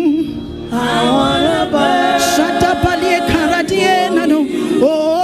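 Several voices singing a gospel worship chorus together, in long held notes.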